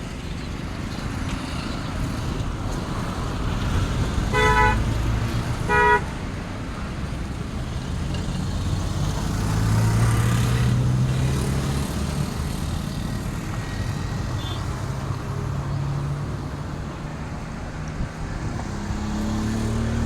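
Road traffic with a steady engine rumble, and a vehicle horn tooting twice, about a second and a half apart, a few seconds in. A vehicle's engine grows louder and passes a little later.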